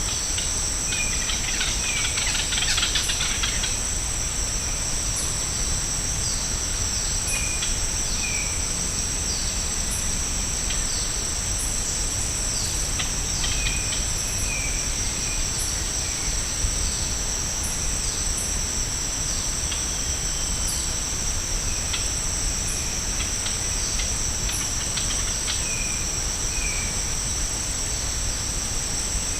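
Rainforest ambience: a steady, loud, high-pitched insect chorus with bird calls scattered over it as short chirps and quick falling notes, and a brief burst of busier calling about two seconds in.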